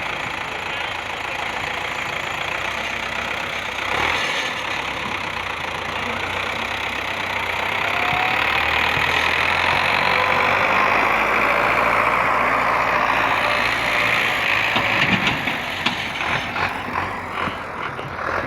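A motor engine running steadily, its sound swelling louder through the middle and becoming choppier near the end.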